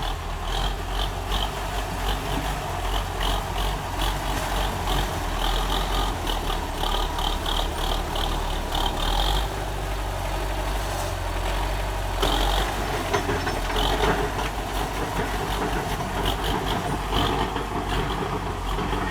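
DT-75 crawler tractor's diesel engine running steadily, with a rapid high ticking running through the first half.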